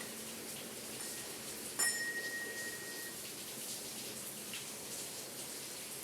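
Steady rain falling, with a small bell of a home belfry struck once by the rain about two seconds in, ringing out for about a second.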